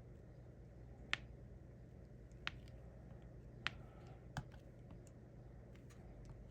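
Small sharp clicks and taps of diamond painting work, a drill pen pressing resin drills onto the canvas: four louder clicks among fainter ticks, over a faint steady low hum.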